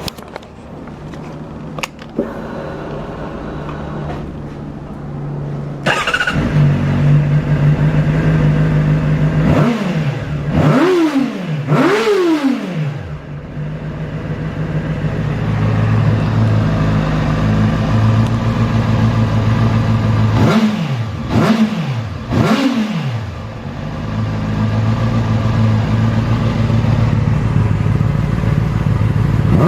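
Honda CBR600RR inline-four engine with a Moriwaki aftermarket exhaust, idling steadily and getting much louder about six seconds in. The throttle is blipped in two sets of three quick revs, each rising and falling in pitch, with idle between.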